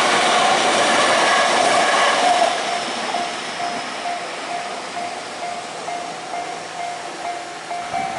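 Electric commuter trains running past at a level crossing, their loud rolling noise dropping off about two and a half seconds in. Through it the crossing's warning bell keeps ringing in a quick, even beat of about three strokes a second.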